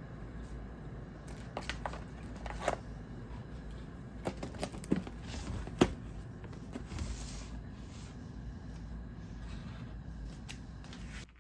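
Scattered light clicks and knocks of small objects being handled, over a steady low room hum; the sound cuts off suddenly near the end.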